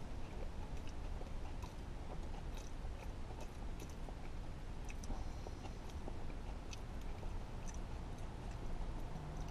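A person chewing a mouthful of a fried buffalo chicken sandwich with a soft bun, making small, irregular wet mouth clicks over a steady low hum.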